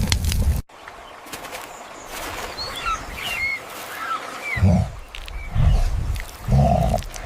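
A low rumble cuts off abruptly, then birds chirp in short calls over a quiet outdoor background. In the second half come deep thuds about once a second.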